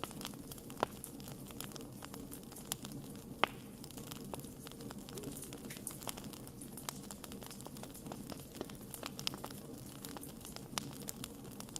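Wood fire crackling: irregular sharp pops and snaps over a steady low background, with two louder snaps about one second and three and a half seconds in.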